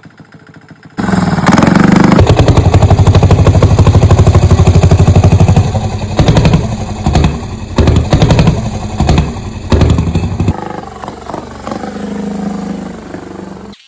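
Small diesel engine of a chopper-style minibike running hard, with rapid firing pulses. After a few seconds it breaks into short bursts of throttle, then drops to a quieter running sound near the end.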